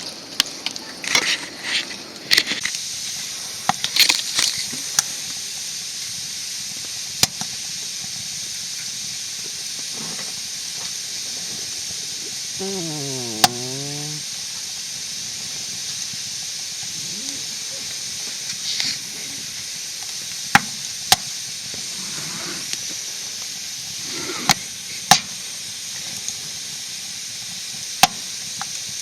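Wood fire burning in a small camp stove: a steady hiss with sharp, scattered crackling pops.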